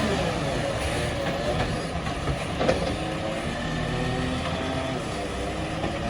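Garbage truck engine running steadily, with a few faint knocks.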